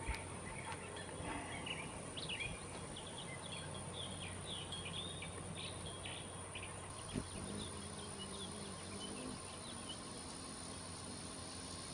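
Small birds chirping and calling repeatedly over a steady outdoor background hiss, with a single soft tap about seven seconds in.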